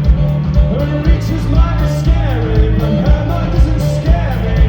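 Live rock band playing: steady drum beat and heavy bass under a melodic line that bends and glides in pitch.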